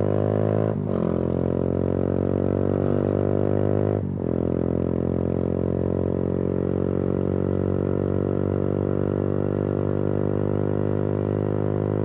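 Yamaha YBR 125G's single-cylinder 125 cc four-stroke engine running under way through an Akrapovič exhaust. The note breaks and dips briefly twice, about a second in and about four seconds in, like gear changes, then drones steadily at constant revs.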